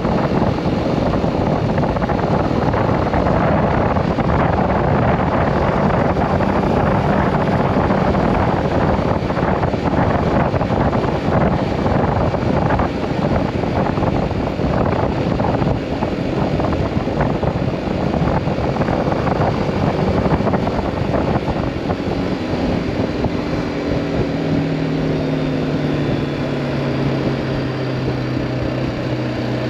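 BMW G310R single-cylinder motorcycle engine running under way, mixed with wind rushing over the microphone. About two-thirds of the way through, the wind noise eases and a steady engine hum comes through more clearly.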